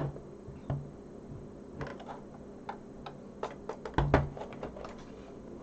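Scattered light clicks and taps of a screwdriver working the screws of a Sinclair QL's plastic case, with a louder knock about four seconds in.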